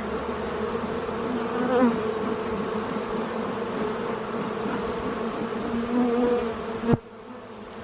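A honeybee colony buzzing around an opened brood box, a steady hum whose pitch wavers up and down. About seven seconds in there is a sharp click, and the buzz is quieter after it.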